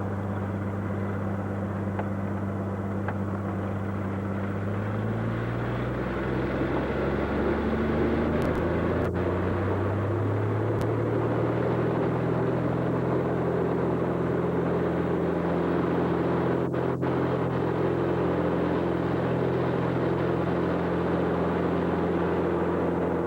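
A light aircraft's piston engine running, its speed rising in two steps, with a few faint clicks.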